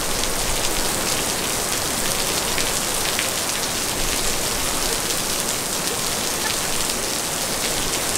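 Heavy rain falling steadily on pavement and flooded street, an unbroken hiss with scattered sharp drop hits.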